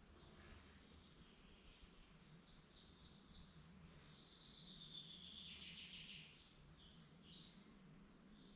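Faint birdsong: a quick run of about five high repeated notes, then a longer warbling phrase, followed by a few short high calls, over a low steady background hum.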